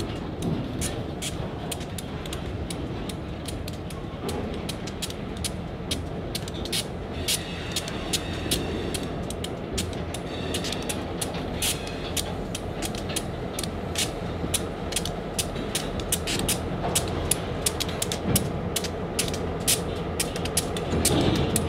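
Slow-rolling freight cars creaking and clicking on the rails, a steady stream of irregular sharp ticks and squeaks from wheels and car bodies, over the low steady rumble of GP38-2 locomotives' non-turbocharged EMD 645 diesels.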